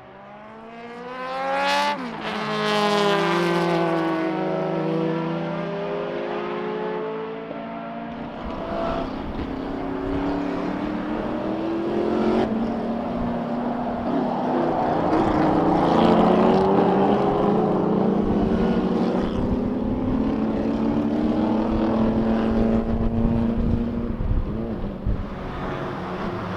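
Sports racing cars passing at speed. The first goes by about two seconds in with a sharp drop in engine pitch as it passes, and more cars follow one after another, their engines rising and falling in pitch.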